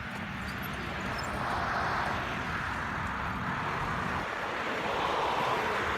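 Road noise from a bicycle ride along a roadside: a steady rush of wind and rolling rumble, with traffic noise swelling about two seconds in and again near the end, as vehicles pass.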